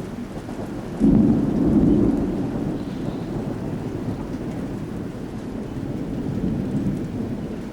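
Thunder from a nearby lightning strike: a sudden loud crack about a second in that rolls into a low rumble, fading slowly over several seconds, over steady heavy rain.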